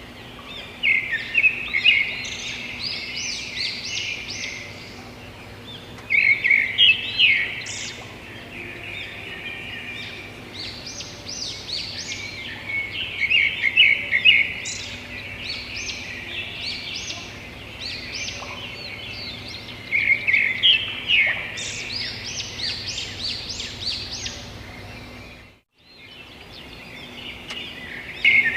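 Birds chirping and calling in repeated bouts of quick high notes every few seconds, over a steady background hum. The sound drops out briefly near the end.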